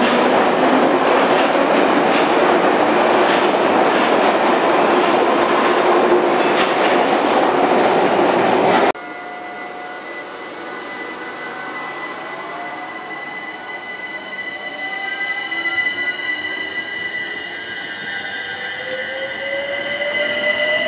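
A London Underground tube train running through the platform: a loud rumble with a steady squeal from the wheels. After a cut about nine seconds in, an electric multiple unit pulls away from the platform, its traction motors whining in several tones that rise in pitch as it gathers speed.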